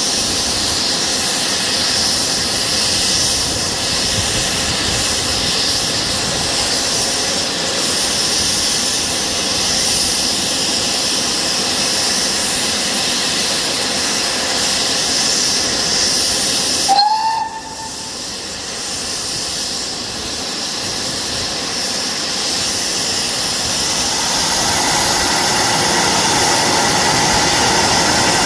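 Steam locomotive hissing steadily. About seventeen seconds in the hiss breaks off suddenly, with a short rising tone, then resumes a little lower and rougher.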